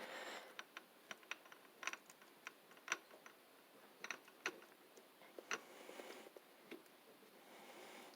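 Faint, irregular small clicks and taps of metal parts as the crankshaft is worked out of a Briggs & Stratton WMB engine block.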